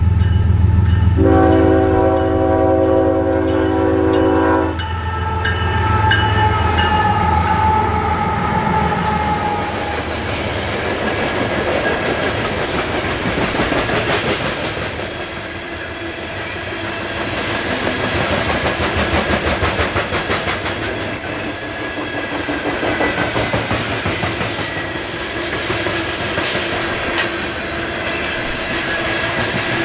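A Union Pacific diesel locomotive sounds one steady chord-like horn blast of about three and a half seconds, starting about a second in, over the deep rumble of the lead locomotives' engines. The rumble fades as the engines pass. A long string of coal cars then rolls by with a continuous clatter of wheels over the rail joints.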